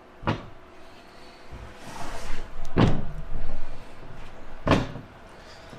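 Three knocks, the loudest about three seconds in, with a rough scraping noise around it, from the ShockWave air shock parts and tools being handled and set down.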